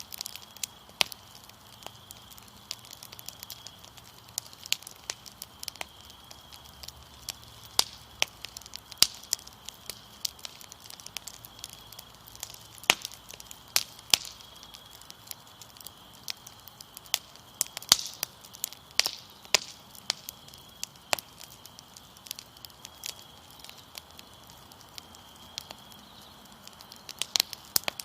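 Wood fire crackling with irregular sharp pops and snaps, over a steady high-pitched trill of crickets.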